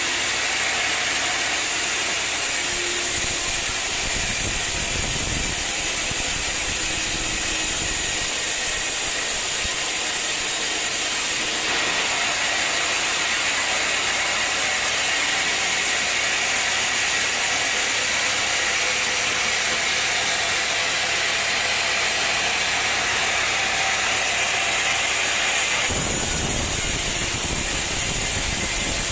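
Sawmill machinery running, a loud steady mechanical hiss. The sound changes abruptly about 12 seconds in and again about 26 seconds in.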